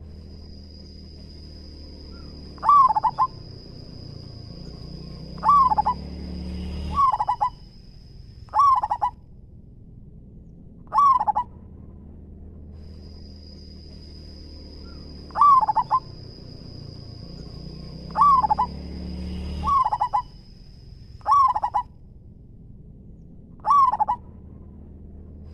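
Zebra dove (perkutut) cooing: about ten short, rapid bursts of its staccato coo, a few seconds apart. A steady high whine runs under much of it.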